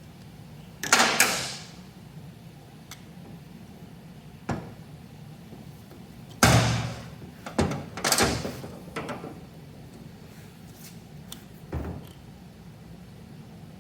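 Metal parts of a lathe compound being handled and knocked apart on a workbench: a string of separate knocks and short scrapes, the loudest a heavy knock about six and a half seconds in.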